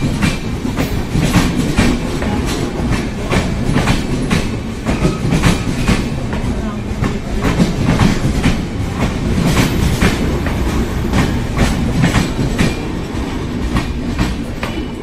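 Passenger train coaches rolling past close by, their wheels clacking over the rail joints in an uneven run of sharp clicks over a low rumble, easing slightly near the end.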